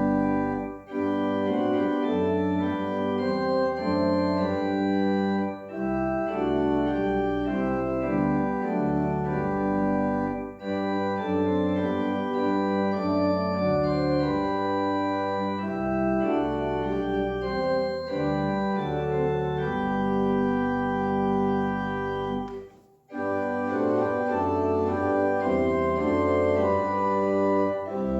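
Organ playing slow music of held chords over a deep bass line, with short breaks between phrases and one near-silent pause a little over twenty seconds in.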